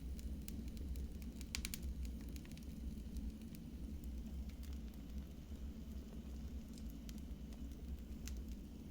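Wood fire burning in a fireplace, crackling: scattered sharp pops over a steady low rumble, with a quick run of pops about a second and a half in.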